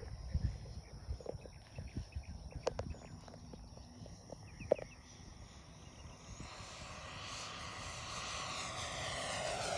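Electric ducted-fan RC model Grumman F9F Cougar jet coming in on a high-speed pass: a rushing whine fades in about six seconds in and grows steadily louder as it closes. Before that, only faint outdoor noise and a few small knocks.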